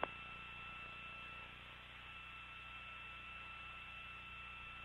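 Faint steady electrical hum with two thin, high, steady tones above it: the background of an open radio communications channel between transmissions. A small click comes right at the start.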